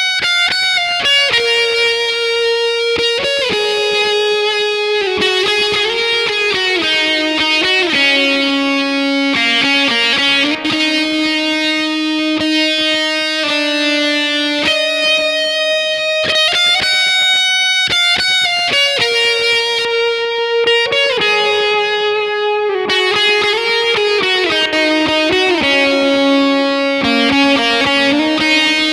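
Electric guitar through a fuzz pedal and delay, playing a slow lead of long sustained notes with thick fuzz harmonics. The same melodic phrase comes round again about halfway through.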